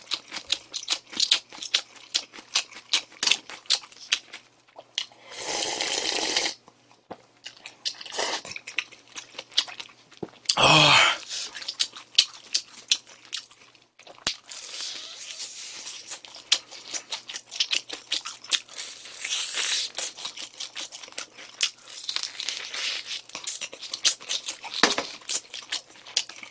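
Close-up chewing and crunching of fried chicken, with many sharp crackling clicks. Two louder rushing noises come about six and eleven seconds in.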